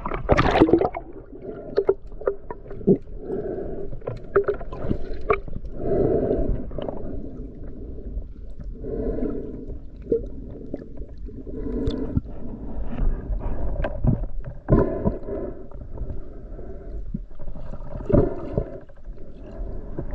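Muffled underwater water noise, gurgling and bubbling in swells every second or two, with a loud splashy burst at the start and scattered clicks.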